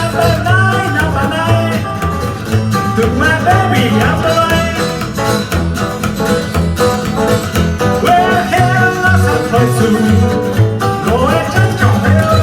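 Live band playing a song at full volume: plucked guitar lines over a pulsing bass and drums, without vocals.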